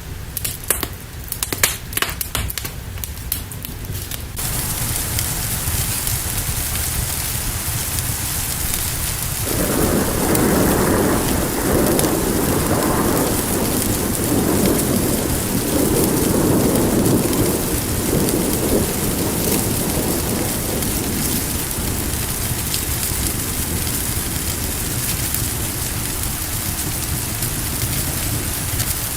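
Steady heavy rain with a long roll of thunder rumbling through the middle. The first few seconds hold scattered sharp crackles over a low rumble before the rain sound cuts in suddenly.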